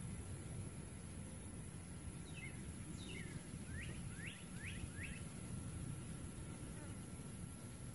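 Faint outdoor background with a low rumble. From about two seconds in, a bird gives a run of short, quick sweeping chirps lasting about three seconds.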